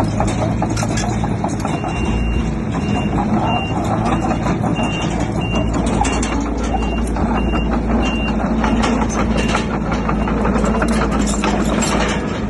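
A heavy construction machine's reversing alarm beeps at a steady high pitch, about twice a second, for most of the stretch. Under it a heavy diesel engine runs with a steady hum, and there is scattered clattering.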